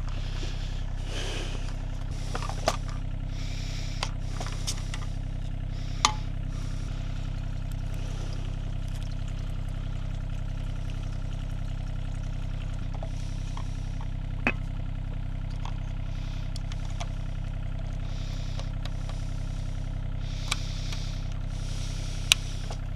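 An engine idling steadily, with a few light clinks and knocks.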